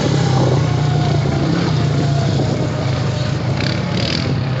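ATV engine running steadily at an even pitch as the quad rides along the trail, with a noisy rush of terrain and wind over it.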